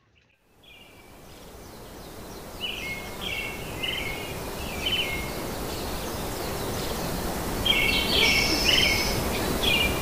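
Small birds chirping in short clusters of calls over a steady outdoor hiss. The hiss fades in over the first couple of seconds. The chirps come around the middle and most thickly near the end.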